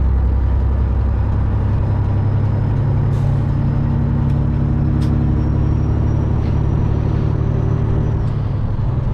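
A semi truck's Detroit Diesel Series 60 engine running steadily at highway speed, its note shifting slightly a couple of seconds in, with a faint high whine over it through the middle.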